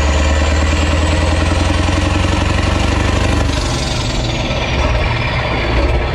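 Renault Magnum's 16.4-litre Mack E9 V8 diesel with open exhaust running loud, its turbo whistle climbing in pitch. About halfway through the engine note changes and the turbo whistle winds down, as when the throttle comes off.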